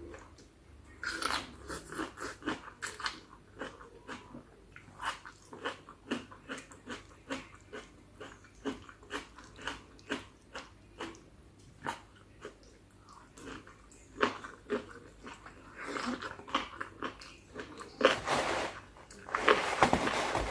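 Close-miked chewing of spicy chicken feet salad: irregular crunches, wet smacks and clicks of the mouth, with a denser, louder run of chewing near the end.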